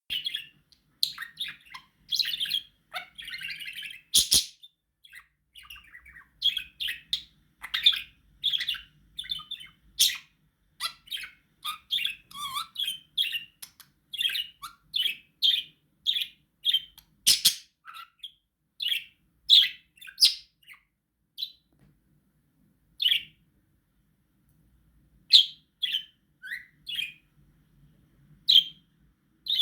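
Budgie chirping and chattering in quick short calls, dense for about twenty seconds and then sparser, with a few sharp clicks among them.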